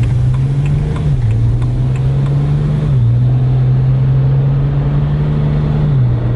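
BMW 135i's turbocharged inline-six running under light load while the car is driven gently, a steady engine drone that steps down in pitch about a second in, again about three seconds in, and near the end.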